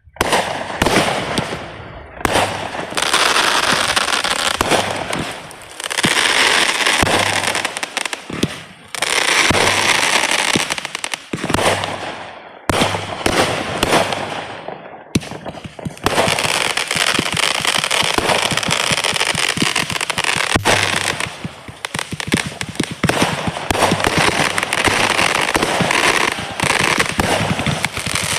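Fireworks going off in quick succession: dense crackling and popping in waves, with short lulls every few seconds.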